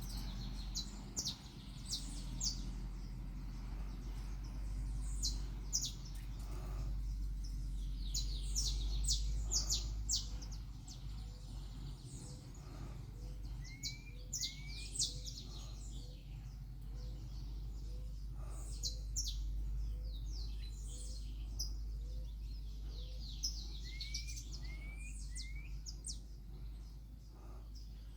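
Wild birds chirping and calling: many quick high chirps and short rising notes, with a soft low note repeated at an even pace for several seconds in the middle. A steady low rumble runs underneath.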